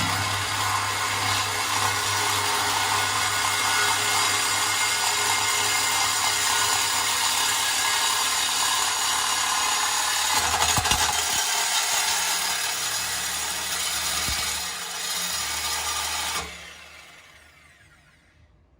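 Power tool cutting through the car's stock exhaust pipe: a steady, harsh cutting noise that stops about 16 seconds in and winds down over the next two seconds.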